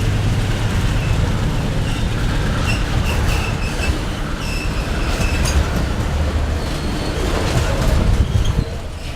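Freight train rolling past with a steady low rumble, its wheels giving short high squeals now and then.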